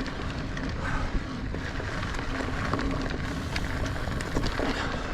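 Mountain bike being ridden on dirt singletrack, heard from an on-bike or helmet camera: wind buffeting the microphone over tyre noise, with scattered clicks and rattles from the bike over the ground.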